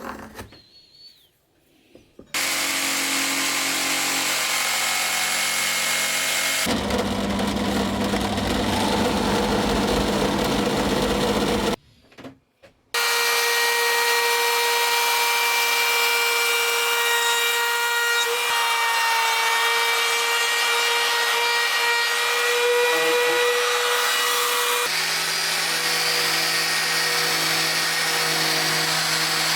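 Mailtank cordless power drill running in long stretches with a steady motor whine. It starts about two seconds in, changes sound around seven seconds, stops for about a second near twelve seconds, then runs again, with the tone shifting near the end.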